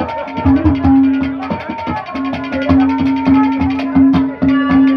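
Haryanvi ragni folk music without singing: quick drum strokes under a long steady held note.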